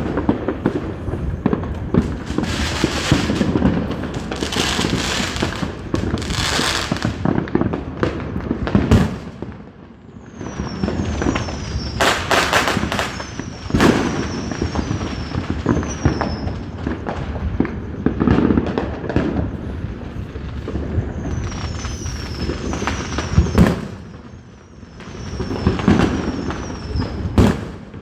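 Fireworks going off in a steady barrage: many sharp bangs over a crackling hiss, with runs of short falling whistles about ten seconds in and again near the end.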